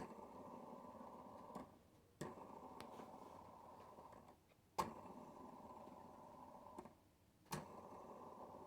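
Hampton Bay Littleton ceiling fan motor humming faintly, switched off and back on over and over: the hum cuts out with a small click and restarts with a sharp click, about every two and a half seconds.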